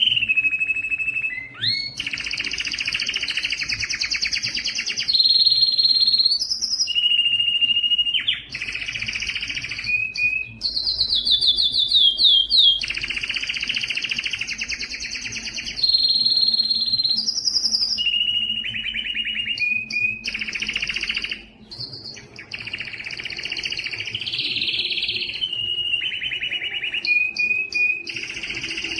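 Domestic canary singing a long song made of phrases a few seconds each: fast buzzing trills, held whistled notes, and quick runs of repeated notes, switching from one tour to the next without pause.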